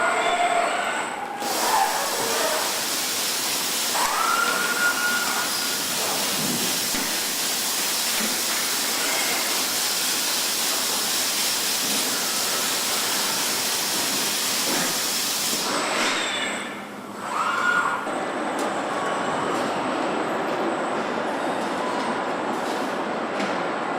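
Car assembly line machinery giving a loud, steady hiss, with two short rising whines, one about four seconds in and one near seventeen seconds, where the hiss briefly drops away.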